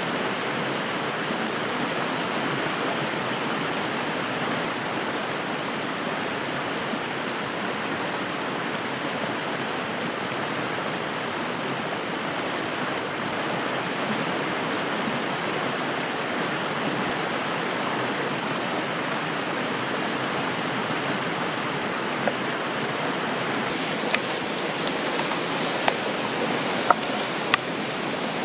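Steady rushing noise of flowing water. About four-fifths of the way in it gives way to sharp, scattered crackles and pops, typical of a wood campfire.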